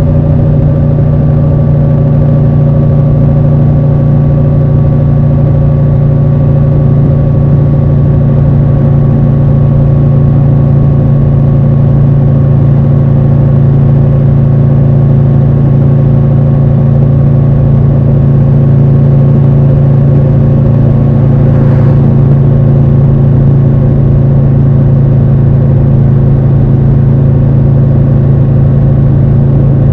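Triumph Tiger 1200 Rally Pro's three-cylinder engine running at steady, nearly constant revs while the bike cruises, its pitch easing down slightly near the start and then holding steady.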